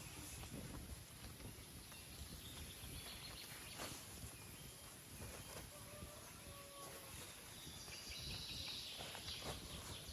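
Faint outdoor ambience with a steady low rumble and a few soft bird chirps, most of them near the end.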